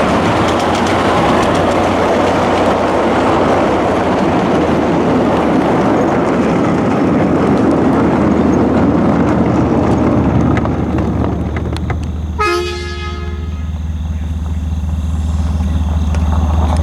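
Train rolling past with a loud, even rushing rail noise, then a short horn blast of about a second, about twelve seconds in. Under it runs the low steady rumble of a diesel locomotive engine, which grows louder near the end.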